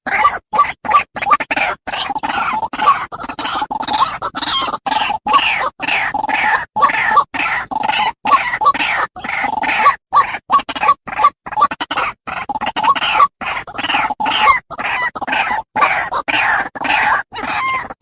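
White-breasted waterhen (ruak-ruak) calling over and over in a rapid, unbroken series of short croaking notes, a few to the second, played as a lure call.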